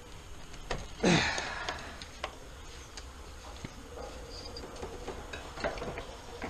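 Scattered clicks and light metallic knocks of parts and hand tools being handled in a car's engine bay, with one louder clank about a second in.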